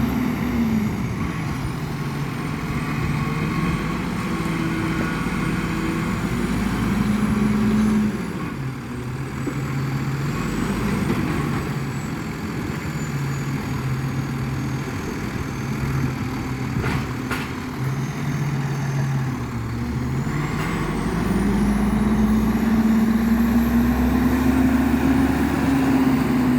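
Garbage truck engine running, its pitch dropping early, then stepping up and down and rising again near the end as it works the bin-lifting arm to pick up and dump a recycling bin. There are a few short knocks partway through.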